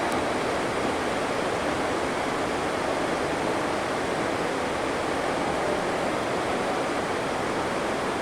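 Heavy rain, a steady, even rush of noise with no breaks.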